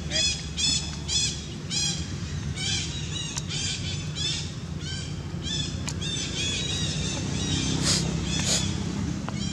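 A bird calling over and over in short, arched chirps, about two a second, over a steady low outdoor rumble; near the end come two sharp rustling clicks.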